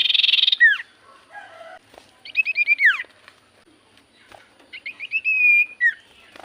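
Common iora (cipoh) singing: a harsh rattling chatter, then two bursts of quick repeated whistled notes, each ending in a downward-sliding whistle, the second with a short held whistle before the slide.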